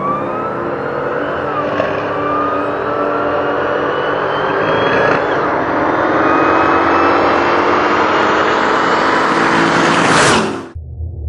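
Drag race vehicle engine accelerating hard through the gears: the pitch climbs, drops back at two gear changes, and climbs again until the sound cuts off suddenly near the end.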